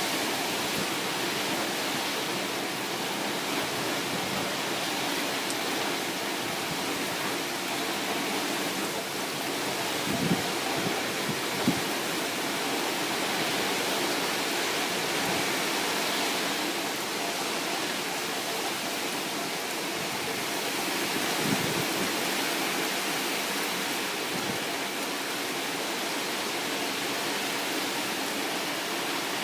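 Heavy typhoon rain pouring steadily, a dense even hiss, with a few brief knocks about ten, twelve and twenty-one seconds in.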